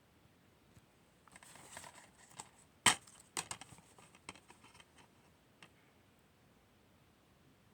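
Handling noises: a soft rustle, then one sharp click followed by a run of smaller clicks and taps, over quiet room tone.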